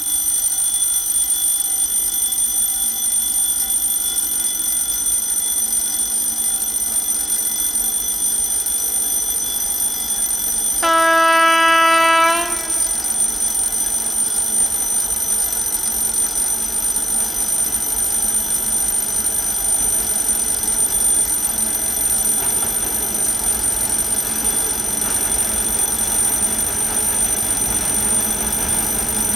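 Level-crossing warning signal ringing steadily. About eleven seconds in, the TEM-TMH diesel locomotive sounds one horn note of about a second and a half. Over the second half the low rumble of the approaching diesel and its freight wagons grows louder.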